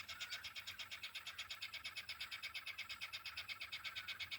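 Galah fledgling begging while being fed by regurgitation: a fast, rhythmic rasping chatter of about a dozen pulses a second, held without a break.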